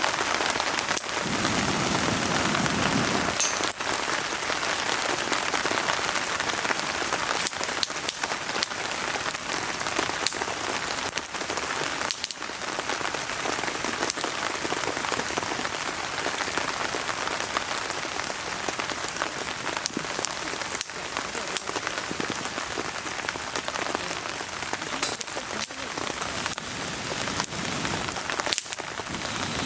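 Steady rain falling, with a wood fire burning in a fire pit: an even hiss sprinkled with many sharp little clicks and pops.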